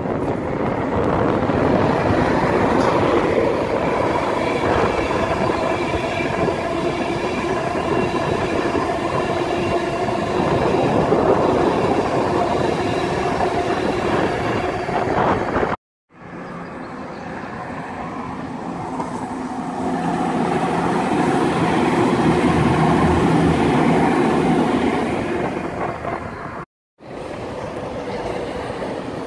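Express passenger trains passing at speed: a Virgin Trains East Coast train runs by close with wheel-and-rail rumble and a steady whine. The sound breaks off abruptly twice; between the breaks another train is heard approaching, growing louder, passing and fading, and after the second break a further train approaches more quietly.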